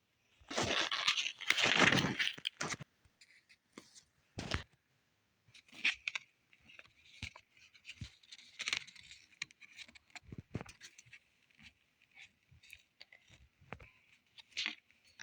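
An album's packaging being handled and opened: a loud stretch of crinkly rustling and tearing for the first two seconds or so, a sharp knock about four and a half seconds in, then a run of light clicks, taps and rustles.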